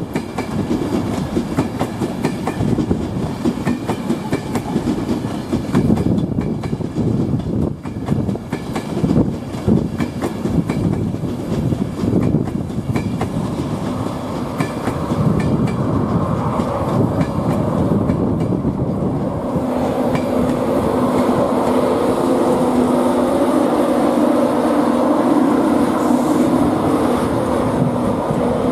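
Train running on the rails, its wheels clattering rapidly over the track. About two-thirds of the way through, the clatter gives way to a steadier hum with a few held tones.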